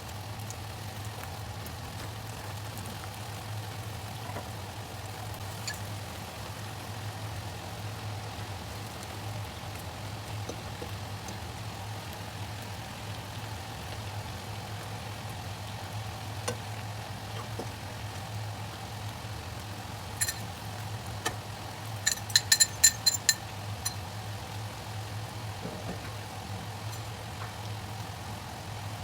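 Chicken and onions frying in sauce in a wok under a steady low hum. A little over twenty seconds in comes a quick run of sharp, ringing metal taps, like a utensil knocking on the wok.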